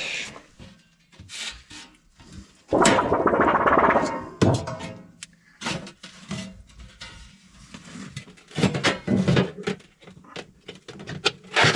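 Parts being handled during installation work: scattered knocks and clicks, with a louder scraping rattle lasting about two seconds, starting about three seconds in.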